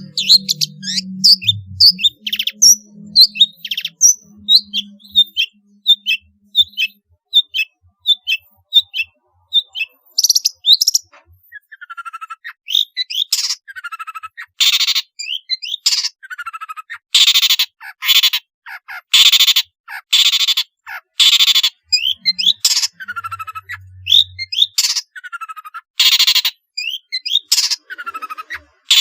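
Long-tailed shrike (pentet) singing: a fast run of short, high chirps, then, from about a third of the way in, loud harsh rasping bursts repeated roughly once a second.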